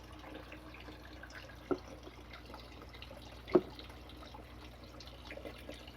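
Water dripping from the plumbing: two single drops plop about two seconds apart over a faint steady background.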